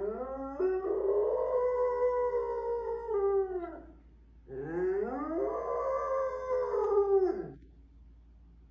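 A dog howling: two long howls, each rising at the start, held for a few seconds, then falling away, with a short pause between them.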